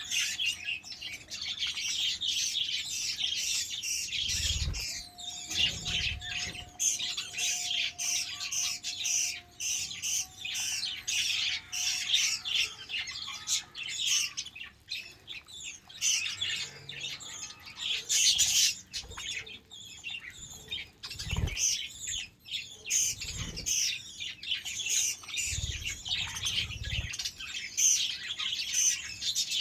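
A flock of budgerigars chattering and chirping continuously, many short high chirps overlapping. A faint steady tone runs underneath for several seconds early on, and there are a few low thumps.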